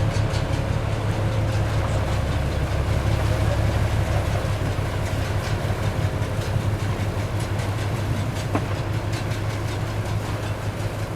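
A large engine running steadily with a deep, loud hum and a faint higher whine over it.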